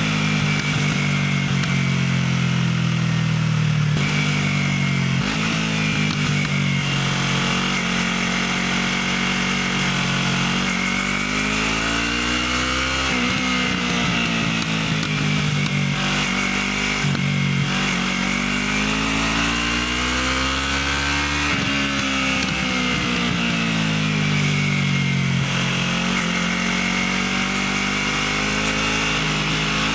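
Motorcycle engine running through a stock exhaust while being ridden. The pitch climbs and falls several times as it speeds up and eases off, with a steady exhaust note between.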